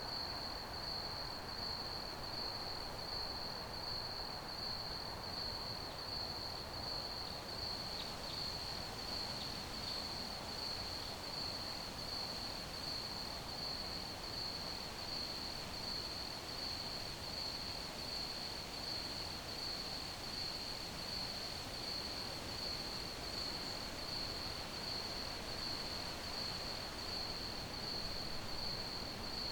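Crickets chirping in a steady, continuous high-pitched pulsing chorus over a constant low background hiss.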